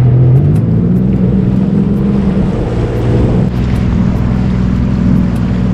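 Jet ski engine running under way, its pitch rising as the throttle opens shortly after the start, easing slightly, then climbing again.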